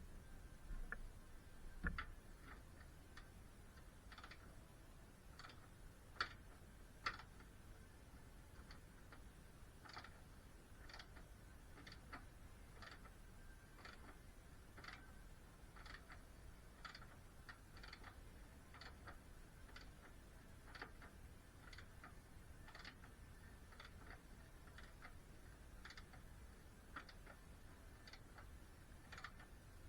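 Faint, sharp clicks about once a second over quiet room tone, with a few slightly louder knocks among them.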